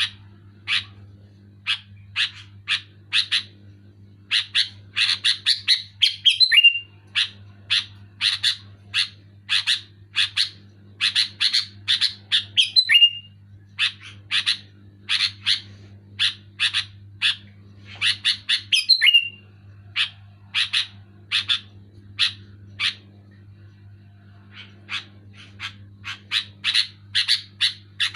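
Sooty-headed bulbul (kutilang) calling loudly in quick series of short high notes, broken by brief pauses, several series ending in a falling note. A steady low electrical hum runs underneath.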